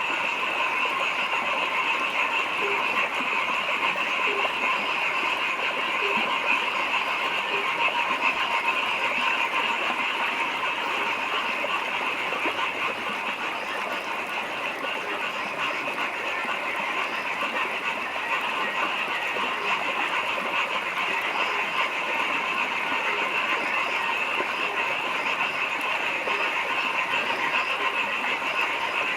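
Dense chorus of many frogs calling at once, a steady, unbroken din with no pauses.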